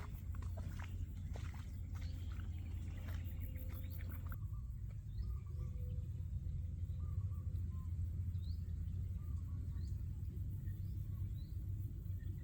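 Forest ambience over a steady low rumble. In the first few seconds there are scattered clicks and knocks. After an abrupt change about four seconds in, small birds chirp with short rising calls and brief warbles.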